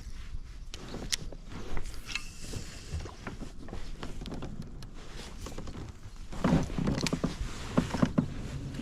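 Irregular small clicks, knocks and rustling, with a louder stretch of bumping about six and a half seconds in.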